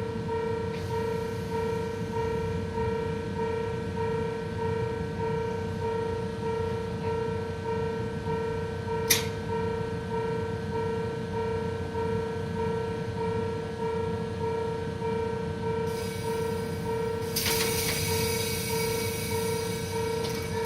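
Japanese level-crossing warning bell ringing in even, repeated electronic strokes over the low rumble of a train waiting at the platform. A sharp click about nine seconds in, and a loud hiss of air starts near the end.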